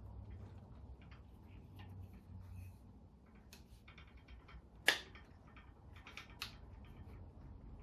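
Scattered light clicks and taps of a urethane band saw tire being stretched by hand onto the band saw wheel, with one sharp click about five seconds in and a smaller one a second and a half later.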